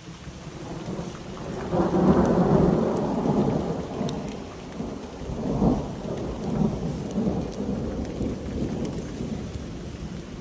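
Thunder rumbling through a rainstorm: a deep roll that swells about two seconds in, swells again near the middle, then rolls on more softly, over the steady noise of rain.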